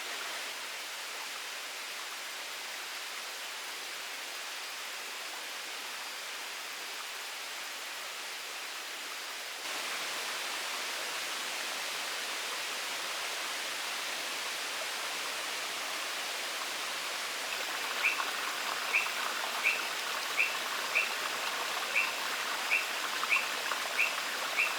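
Rainforest ambience: a steady hiss that steps up in level about ten seconds in. From about eighteen seconds, a short high chirp repeats evenly, roughly every two-thirds of a second.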